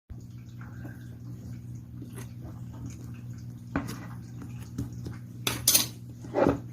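Light clicks and clatter over a steady low hum, with two louder rustling bursts near the end.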